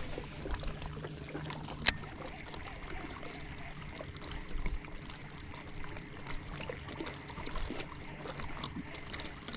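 Light rain falling on the water and boat, a haze of small ticks and splashes, under a faint steady low hum. One sharp click about two seconds in.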